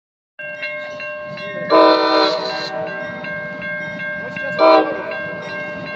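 Freight locomotive's air horn sounding twice, a longer blast about two seconds in and a short one near five seconds, over a bell ringing with steady repeated strikes.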